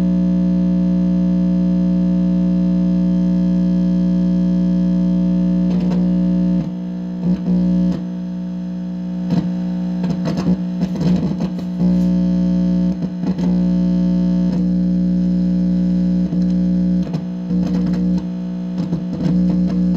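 Loud electronic buzz coming through an amplifier, a steady hum with a stack of overtones. From about six seconds in it breaks up into irregular crackling and warbling interference.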